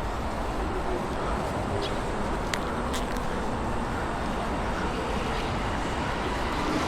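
Steady roar of road traffic, growing slightly louder near the end, with two faint clicks about halfway through.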